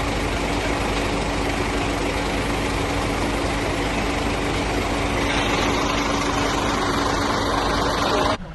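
A large engine running steadily with a constant hum, which cuts off suddenly near the end.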